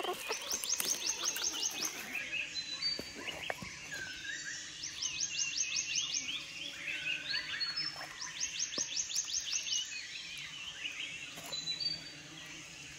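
Forest birds calling: a rapid, even trill of high notes comes three times, with wavering chirps between.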